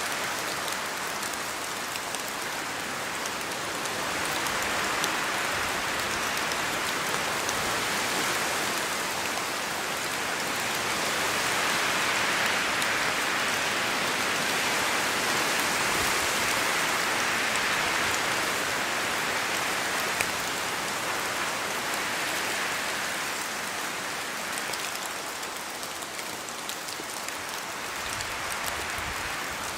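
Steady rain in a forest, with drops pattering on leaves and a rushing hiss that swells and eases slowly, loudest around the middle.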